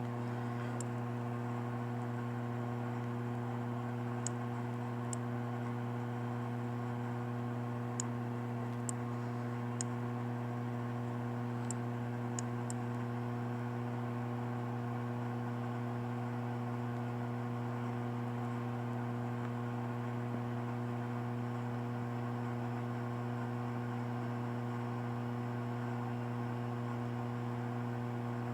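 Steady electrical hum, constant throughout, with a few faint ticks in the first half.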